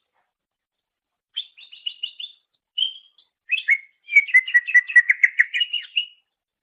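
Cucak ijo (greater green leafbird) singing. After a silent gap comes a quick chattering phrase, a couple of short notes, then a fast run of repeated notes that stops about a second before the end.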